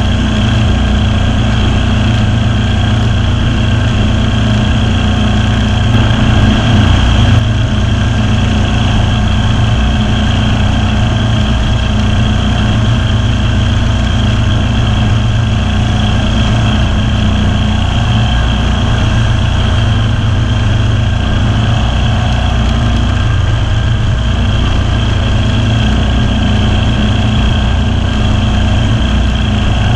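Kawasaki V-twin engine of a Ferris zero-turn lawn mower running steadily under load while mowing, getting briefly louder about six seconds in.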